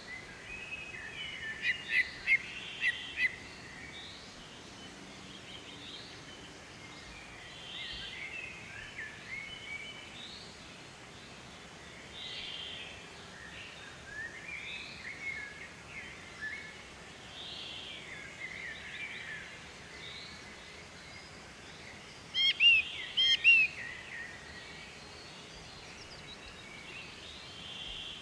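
Wild birds calling: short chirps and whistled notes recur throughout over a steady background hiss. Quick runs of loud chirps come about two seconds in and again near the end.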